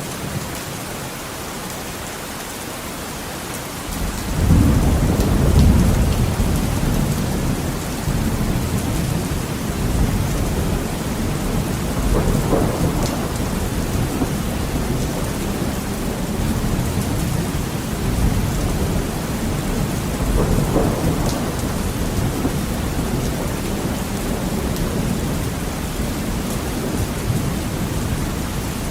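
Heavy rain pattering steadily against a window pane, with rolling thunder that sets in about four seconds in and keeps rumbling, swelling several times.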